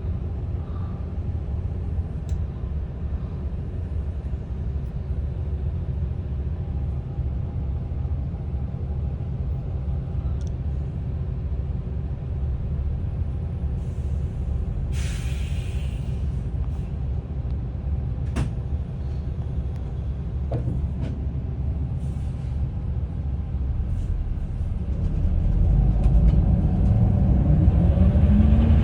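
Daewoo FX116 bus's diesel engine idling with a steady low rumble. About halfway through there is a short hiss of compressed air, and near the end the engine revs up, rising in pitch, as the bus pulls away.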